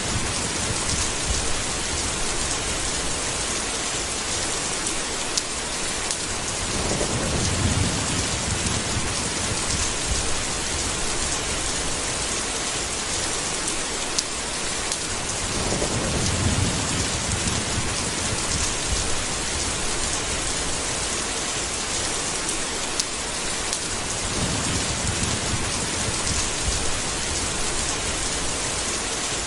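Steady heavy rain hissing, with low rolls of thunder rumbling in three times, roughly every nine seconds.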